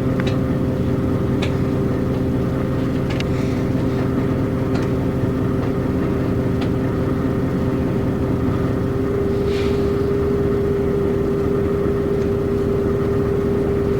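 Route bus's diesel engine running steadily under way, heard inside the passenger cabin: a constant hum with a steady tone. Now and then there is a short light click or rattle.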